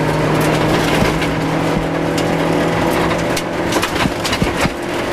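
Rover 214 rally car's 1.4-litre K-series engine held at steady high revs while driving flat out on a gravel stage, with stones and bumps knocking against the body. About four seconds in, the steady engine note breaks off as the driver comes off the throttle.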